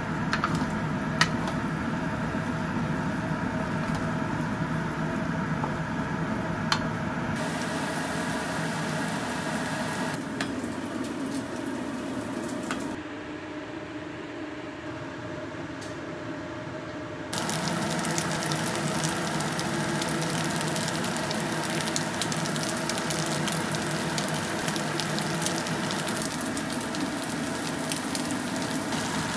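Egg fried rice with corn and edamame sizzling and being stirred in a wok with a wooden spatula, with a couple of sharp knocks of the spatula on the pan early on. The sizzle quietens for about four seconds in the middle, then comes back louder.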